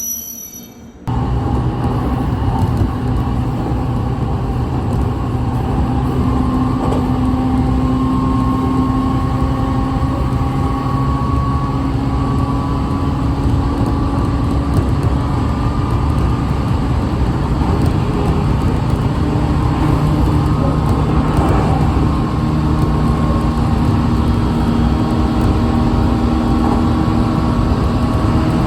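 Steady loud rumble of a moving train, with a faint hum that drifts slowly in pitch; it starts abruptly about a second in.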